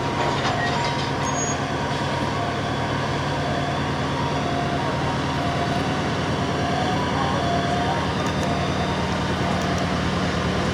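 Locomotive running close by: a steady, unbroken low hum with a constant rushing noise, slowly getting a little louder.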